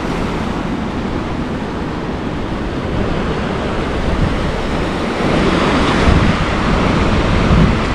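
Rough sea surf washing and breaking, with wind buffeting the microphone; the wash swells louder about halfway through.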